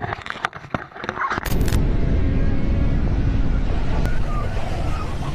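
Scattered clicks and crackles, then about a second and a half in an abrupt switch to a loud, steady low rumble of motorcycles on the move: engine and wind noise.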